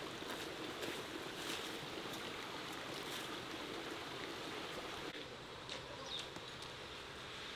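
Steady hiss of light rain falling on wet ground and foliage, with a couple of faint high chirps about six seconds in.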